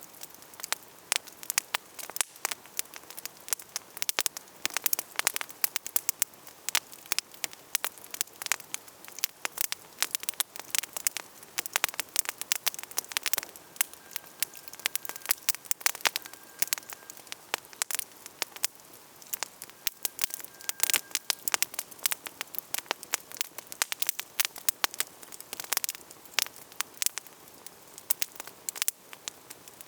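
Wood campfire crackling, with a constant scatter of sharp snaps and pops over a soft hiss of burning.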